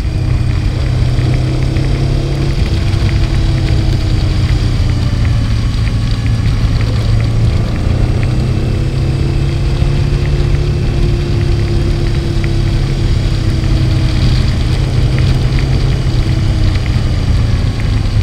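Honda Transalp 650 V-twin engine running at a steady cruise, heard from on board with wind rushing over the microphone; the engine note rises a little in the middle and eases back.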